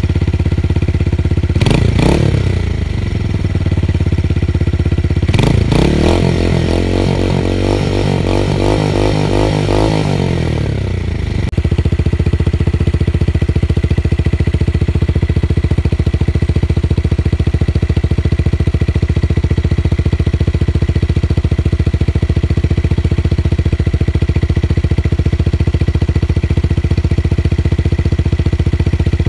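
Tuned motorcycle engine with a deep bass note idling, blipped once about two seconds in, then revved for several seconds with the pitch wavering and falling back. It then settles into a steady idle.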